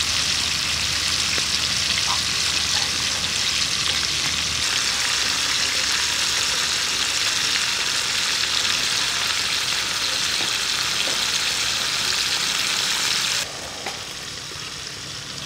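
Pork chop pieces deep-frying in hot oil in a steel wok: a steady, dense sizzle with a few faint pops. About thirteen seconds in, the sizzle drops suddenly to a quieter level.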